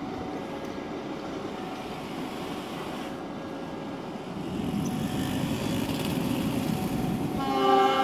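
Train rolling along the tracks, a steady rumble that grows louder about halfway through. Near the end a loud held chord of several steady tones comes in.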